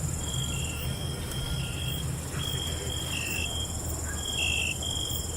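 Several crickets trilling in continuous night chorus, one pitch switching on and off against a slightly lower one every half second or so, over a steady higher trill and a low rumble.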